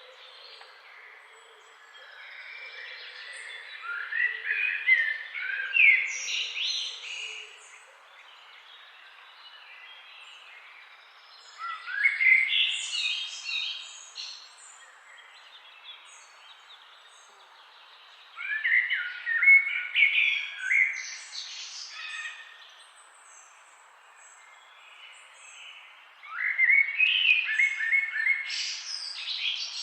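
Songbird song in four loud phrases of quick, high, rising and falling notes, about seven seconds apart, over the steady hiss of a flowing forest river.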